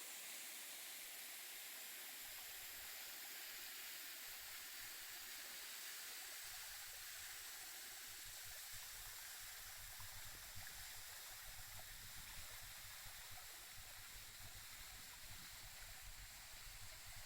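Faint, steady rush of falling and flowing water, with an unsteady low rumble underneath from about six seconds in.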